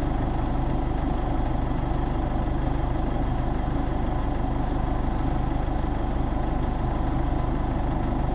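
A motor-vehicle engine idling steadily and evenly.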